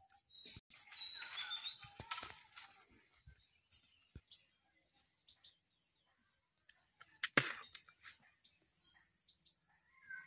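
Faint outdoor ambience with brief bird chirps, and one sharp click about seven seconds in.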